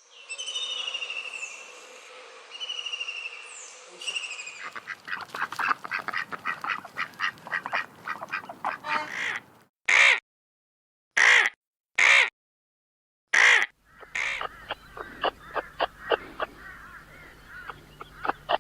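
Bird calls. For the first few seconds high, falling whistled calls sound; then come rapid runs of short, harsh calls and four single loud calls with silent gaps between them.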